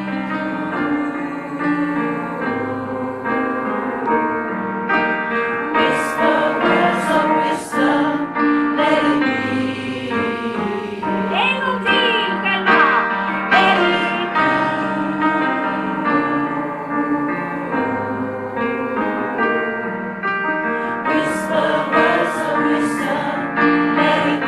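A large amateur choir of mixed voices singing a song in unison and parts, accompanied by an electric piano.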